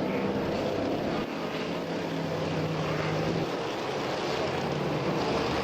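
A field of modified stock cars running together at low speed behind the pace truck, their engines blending into one steady hum.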